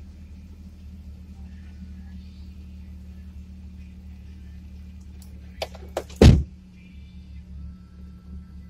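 A 4x4's engine idling steadily as a low, even hum. About six seconds in come two or three sharp clicks and then one loud, heavy thump.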